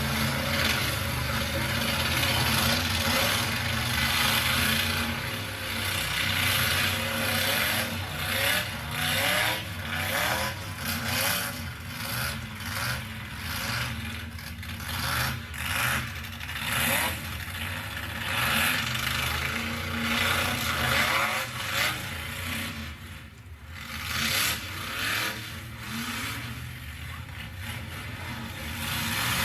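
Pickup-truck engines revving hard and dropping back again and again, with scraping and rattling of metal as demolition derby trucks push and collide.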